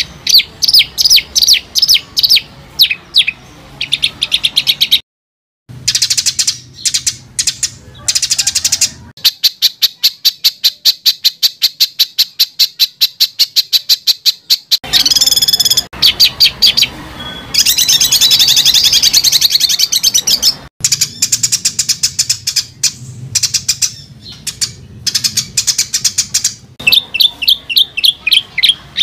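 Recorded songbird calls for training competition birds: a string of short, loud, high-pitched chirping phrases spliced one after another, with a fast, even run of sharp repeated notes in the middle and harsher, dense chattering passages after it.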